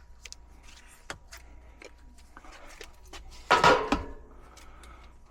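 Handling noise at an HVAC air handler: scattered light clicks and knocks, then one loud, brief rattling clatter about three and a half seconds in.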